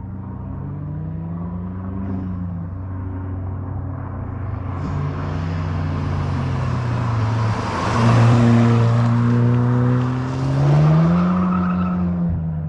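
Exhaust of a Volkswagen MK8 GTI's turbocharged 2.0-litre four-cylinder engine, running through a muffler delete with the stock downpipe. The engine note rises and falls several times and is loudest about eight seconds in, with another swell near the end.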